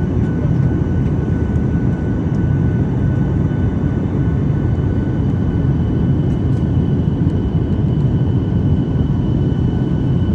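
Steady roar of a passenger airliner's engines and rushing air, heard inside the cabin, with a faint high whine running through it.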